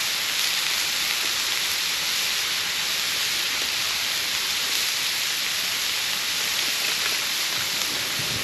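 Steady hissing noise, even and unbroken.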